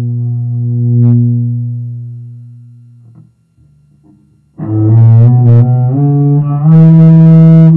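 Hand-made double bass playing: a held low note fades away, and after a short pause loud new notes come in about four and a half seconds in, moving between pitches.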